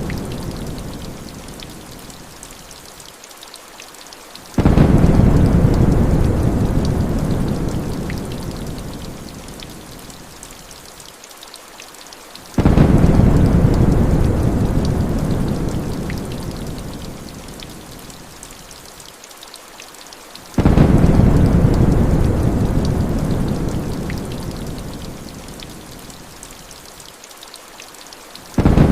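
Heavy rain falling steadily, with deep rumbles of thunder that start suddenly about every eight seconds and fade away over several seconds, four times.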